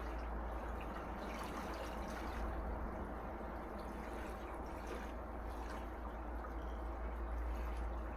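Gentle sea waves washing on a shore, the water trickling and dripping back with small fizzing clicks, over a low steady rumble; the wash swells slightly about two and a half seconds in and again near the end.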